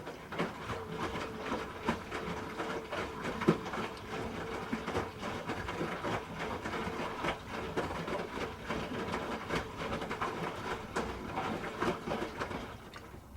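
Hoover H-Wash 300 Plus front-loading washing machine turning its drum for one stretch, with a steady motor hum under a busy, irregular clatter of the tumbling load. It starts abruptly and winds down near the end.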